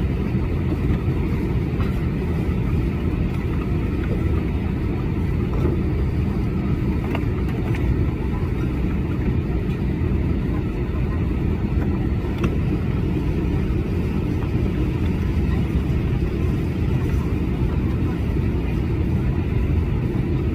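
Steady low rumble of a moving vehicle, holding at an even level with no rise or fall.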